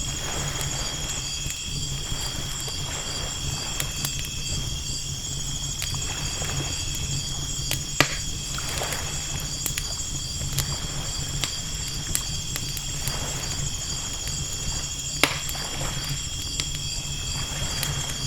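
Campfire crackling with scattered pops, two of them sharply louder, over waves washing in every few seconds and a steady, high, pulsing chirp of night insects.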